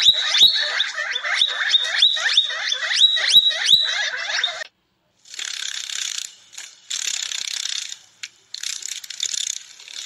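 A quick series of high, sharp chirping calls, about two or three a second, stops abruptly about halfway through. It is followed by stop-start bursts of dry, rattling hiss.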